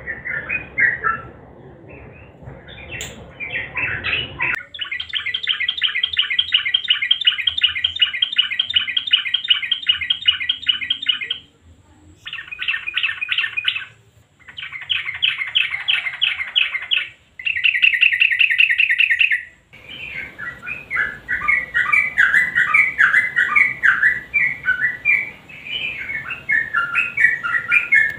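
Yellow-vented bulbul song: a few chirps, then long rapid rattling runs of clipped, evenly repeated notes in several bursts, the last one tighter, followed from about two-thirds of the way in by varied chattering phrases. This fast clicking rattle is the 'nguklik' style that keepers train their birds toward.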